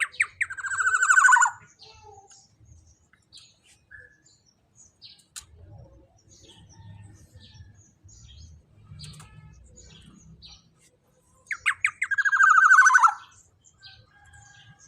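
Black-naped oriole (kepodang emas) giving two harsh, rasping calls that slide down in pitch, one at the start and one near the end, with faint scattered chirps between them.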